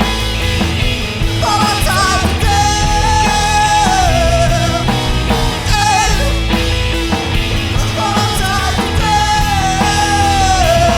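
Rock song with drums and guitars, and a high melodic lead line that holds notes and bends down between them, twice.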